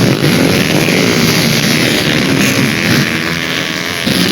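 Dirt bike engines running and revving on the track, their pitch rising and falling.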